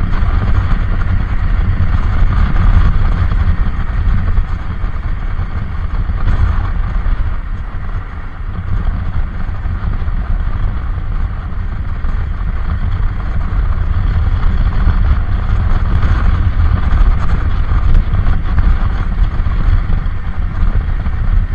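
Loud, steady low rumble of travel noise from a moving vehicle, with wind buffeting the microphone.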